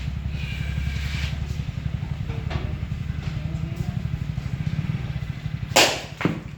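Powertrac Euro 50 tractor's diesel engine idling steadily with a fast, even pulse. A loud sharp knock comes near the end, then a smaller one just after.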